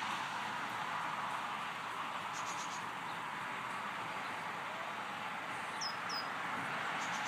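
Steady outdoor background hiss, with small-bird sounds over it: a quick run of faint high ticks about two and a half seconds in, and two short, high, falling chirps near six seconds.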